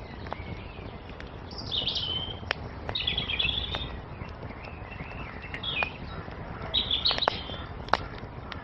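Wood fire crackling with scattered sharp pops over a low rumble, while songbirds chirp in four short high phrases, the loudest about two and three seconds in and again near the end.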